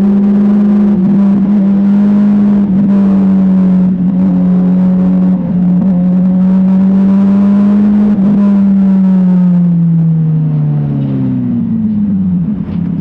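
Motorcycle engine running at a steady speed while riding, with wind and road noise. The engine note holds steady, then drops in pitch over the last few seconds as the bike slows down.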